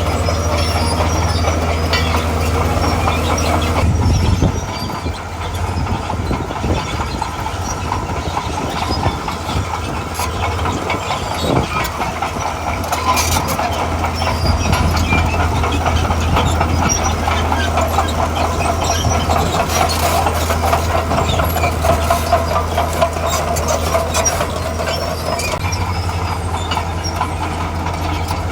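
Diesel engine of a tracked earthmoving machine running under load, with the clatter of its steel tracks. The engine note shifts about four seconds in and strengthens again near the end.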